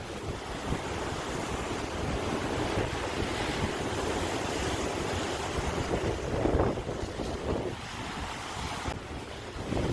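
Ocean waves washing on the shore in a steady roar that swells and eases, one wave breaking louder about six and a half seconds in, with wind on the microphone.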